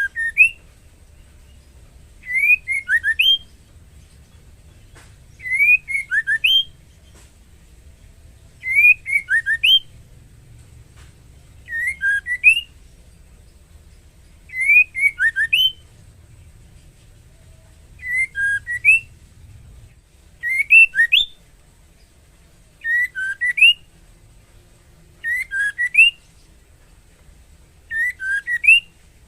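Female white-rumped shama calling, a short whistled phrase of a few quick rising and falling notes repeated about every three seconds: the call of a female in breeding condition to a male.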